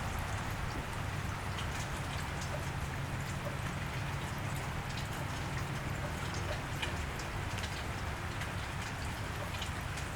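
Steady cold rain falling on a wet street, an even hiss with scattered drips ticking through it and a steady low rumble underneath.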